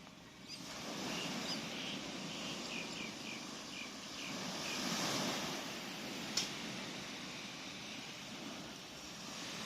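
Gentle sea waves washing in, one swelling up about five seconds in. A bird chirps a quick run of short, high notes in the first half, and there is one sharp click a little after six seconds.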